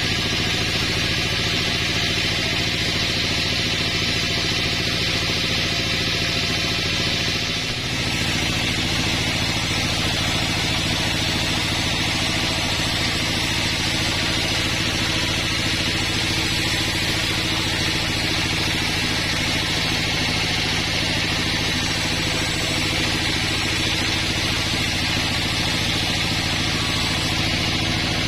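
Engine-driven sawmill running steadily: a constant engine hum under a high, even noise from the saw, with a brief dip about eight seconds in.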